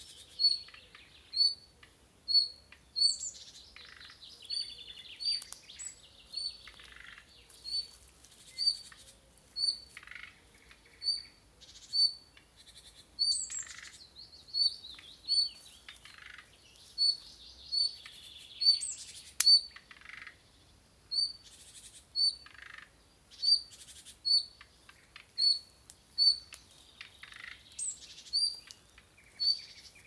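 Woodland birds singing and calling: one bird repeats a short, high call note about once a second, while other songbirds add varied phrases and short trills.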